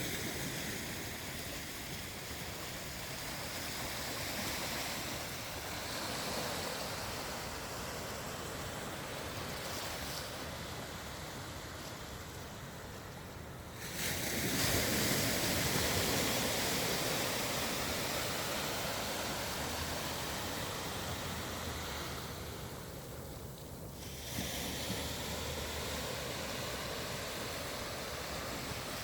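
Ocean surf on a beach: a continuous rush of breaking waves that swells and fades, turning suddenly louder about halfway through.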